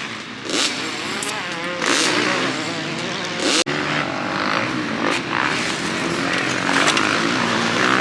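Dirt bike engines revving on a motocross track, with several quick rises in pitch as the throttle opens. The sound breaks off sharply for an instant about three and a half seconds in.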